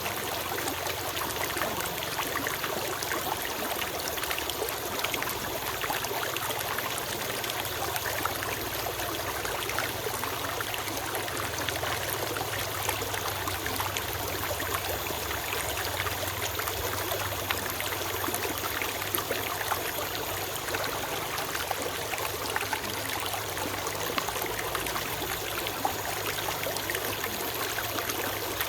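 Small forest stream flowing steadily, water trickling and babbling over stones.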